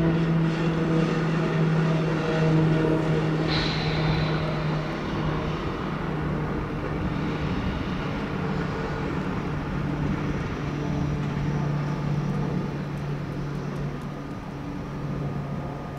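ÖBB Railjet train at a station: a steady low electric hum over a broad rumbling running noise, with a brief high squeal about three and a half seconds in.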